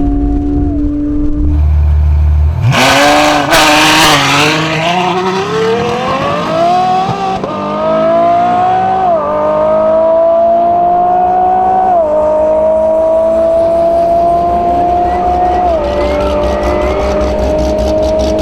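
Ferrari F12 Berlinetta's V12 with a catless iPE exhaust holding revs, then launching hard with a short burst of noise at the start. It pulls through the gears, the pitch climbing in each gear and dropping back at four upshifts.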